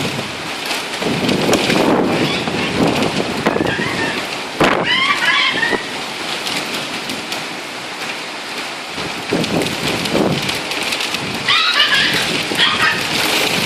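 Heavy storm rain pouring down, with gusts buffeting the microphone. Two short runs of high chirps come through, about four seconds in and near the end.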